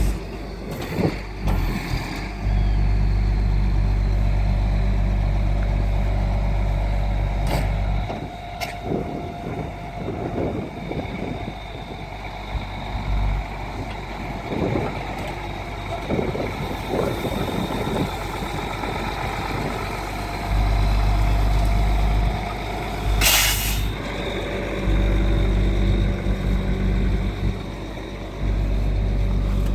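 Freightliner truck's diesel engine running, with a steady whine through the middle stretch and one short, loud burst of hissing air about two-thirds of the way through.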